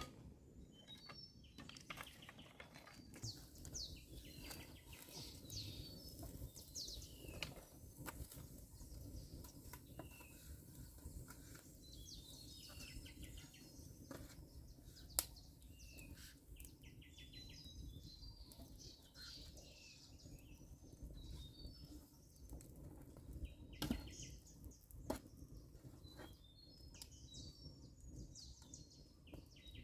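Birds chirping: many short, high chirps and quick downward notes repeated throughout, over faint low background noise, with a few sharp knocks, the loudest about fifteen seconds in.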